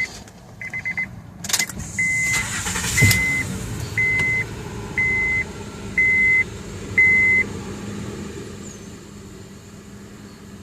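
2010 Honda Odyssey's 3.5-litre V6 cranks briefly and starts, then idles steadily, now that its failed ignition switch has been replaced. Its warning chime beeps quickly at first, then six single beeps about once a second over the idle.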